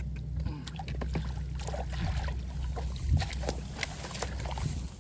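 Muddy water in a flooded rice field splashing and sloshing as fish are grabbed by hand, with many short splashes and one louder splash about three seconds in, over a steady low hum.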